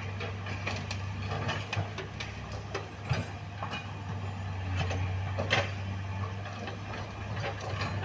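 A heavy engine running steadily, with scattered sharp clanks and knocks, the loudest about three seconds and five and a half seconds in.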